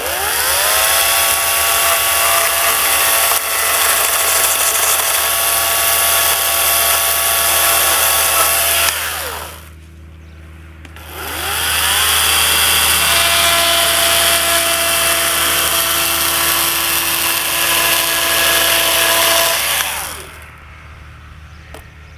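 Electric power tool run twice for about nine seconds each. Each time its motor whine rises as it spins up, holds steady, then winds down.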